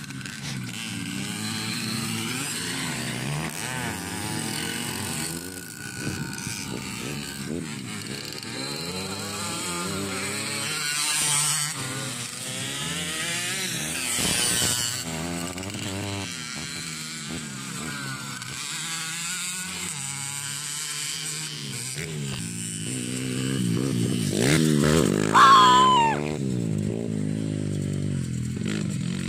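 Motocross bikes racing on a dirt track, several engines revving up and down as they accelerate and shift. One comes close and is loudest about 25 seconds in, its pitch dropping as it goes by.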